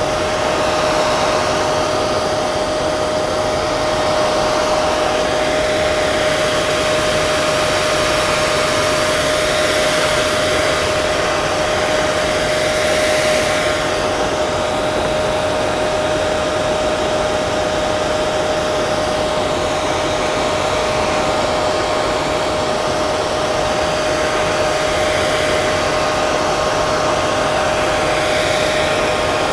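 Hair dryer running steadily: an even rush of blown air with a steady motor whine.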